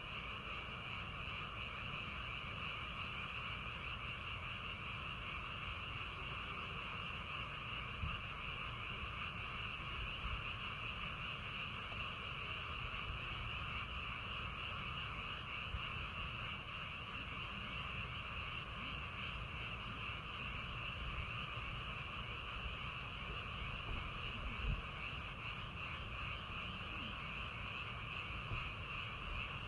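A dense chorus of many frogs calling continuously in a steady, unbroken trill, with a low rumble underneath.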